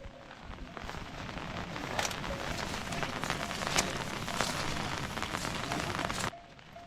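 Steady rain falling on a surface, a dense patter with individual drops ticking and a few sharper drips standing out; it drops off abruptly about six seconds in.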